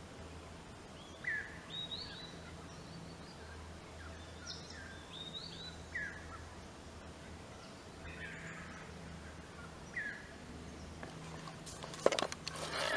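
Wild birds calling: short, repeated chirps, some sliding down in pitch, every second or two. A few sharp clicks come near the end.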